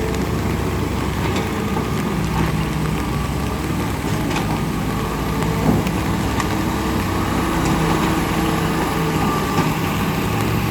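A vehicle engine running steadily, with rain hissing and pattering around it.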